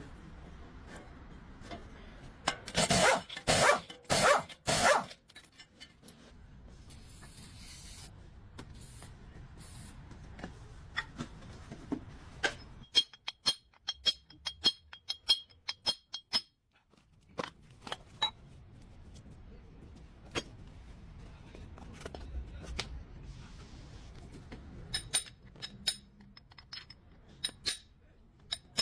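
Metal tools clinking and knocking during work on a car's front wheel bearing, with a run of four loud, harsh bursts about three seconds in and a quick run of high pings about halfway through.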